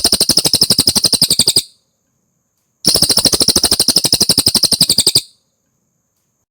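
Cililin song: two long, very fast trills of evenly repeated high notes, about two and a half seconds each with a short pause between. This is a loud 'masteran' training recording.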